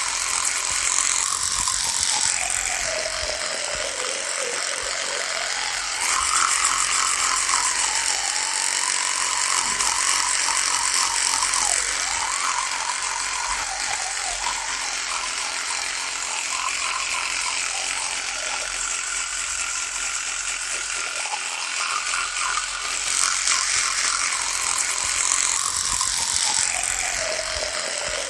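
Electric toothbrush running continuously, a buzzing whine whose pitch sags and recovers several times, dipping lowest about four seconds in and again near the end.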